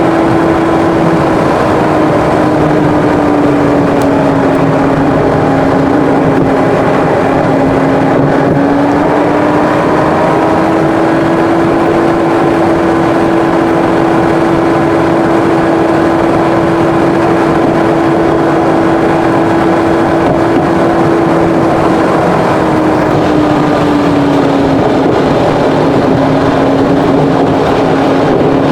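Car cruising at speed: a steady engine hum over road and wind noise. The hum drops slightly in pitch a few seconds in, rises again around ten seconds, and drops once more near the end as the speed changes.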